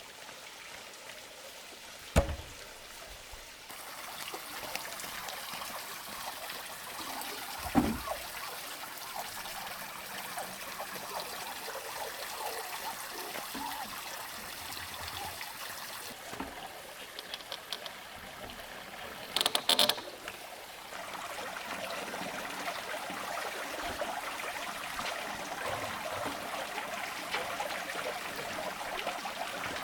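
Steady trickling water, broken by a sharp knock about two seconds in, another about eight seconds in, and a short clatter of hits about twenty seconds in.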